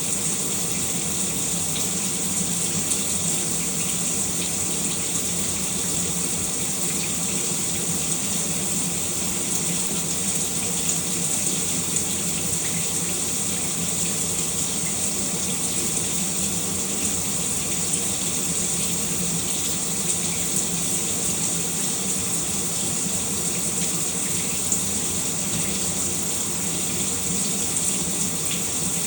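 Shower running steadily, a constant hiss of spray on the tub or floor.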